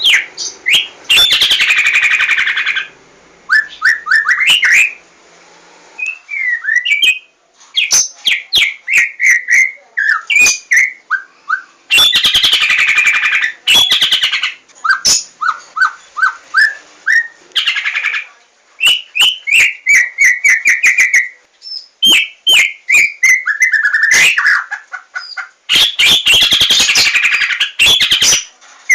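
White-rumped shama singing a loud, varied song: clear whistled notes, fast runs of repeated notes, and bursts of harsh chattering, in phrases broken by short pauses.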